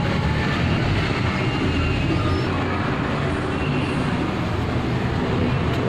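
A car engine running steadily, with a low, even hum and no change in speed.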